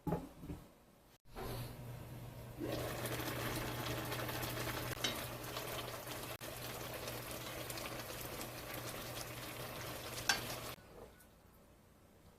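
Food sizzling as it fries in a pan, a dense even hiss over a steady low hum, with a few light clicks and one sharp click a little after ten seconds in; it stops abruptly near the end.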